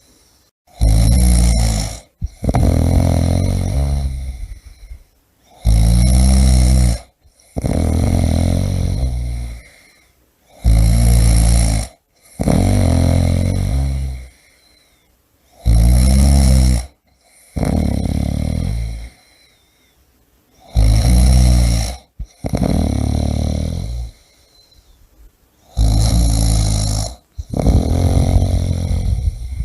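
A person snoring loudly and steadily, one breath about every five seconds. Each breath is a short, loud rattling snore followed straight away by a longer one, then a pause.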